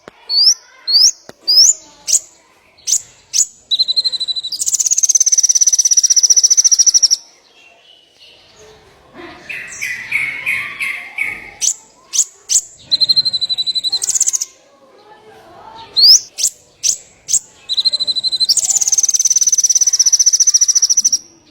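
Small songbird singing: a run of quick rising chirps, a short steady whistle, then a long, very fast trill of about three seconds, with the whole phrase sung twice.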